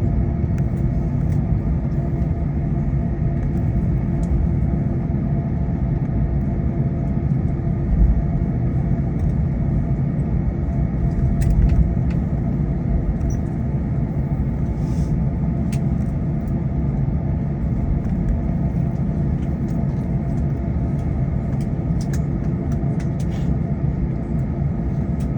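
Cabin noise inside an Airbus A321: a steady low rumble with a constant engine hum, with two brief bumps about eight and twelve seconds in.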